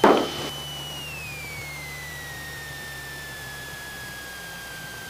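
Cessna 172SP main wheels touching down with a brief thump and scuff, while the stall warning horn, already sounding through the flare, keeps up a high steady whistle. About a second in, the horn slides down in pitch as the aircraft slows on the runway, over a low engine idle hum that fades.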